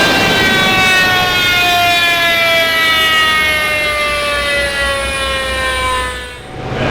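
Car engine winding down after a full-throttle pull, its whine falling steadily in pitch over about six seconds, then fading out near the end.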